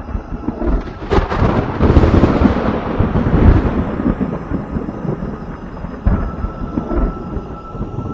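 Thunder: a sharp crack, then a loud rolling rumble that builds for a couple of seconds and slowly dies away, swelling briefly again near the end.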